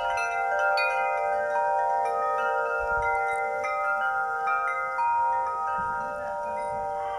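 A set of hanging metal chimes, a 'wish bell', being rung by hand. New strikes come about twice a second, and the many clear tones ring on and overlap.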